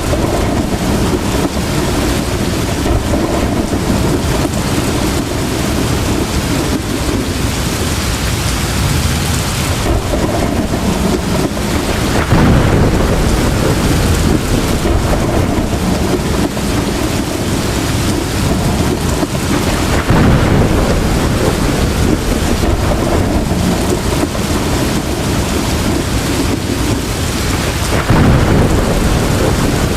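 Heavy rain pouring steadily in a thunderstorm. Low rumbles of thunder swell up about twelve, twenty and twenty-eight seconds in.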